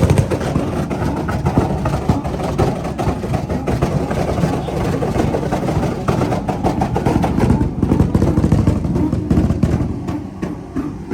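Car engine revving hard, loud and continuous, easing off near the end.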